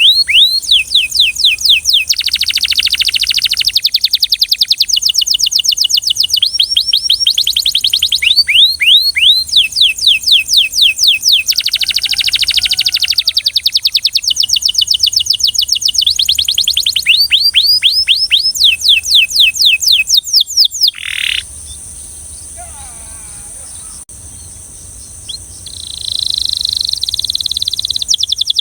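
Belgian canary singing in fast trills of rapidly repeated notes, broken by short pauses. The song stops for a few seconds about two-thirds of the way in, then resumes near the end as a steadier, higher trill.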